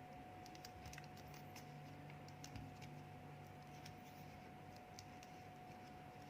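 Faint rustling and scattered light ticks of a square of origami paper being folded and creased by hand.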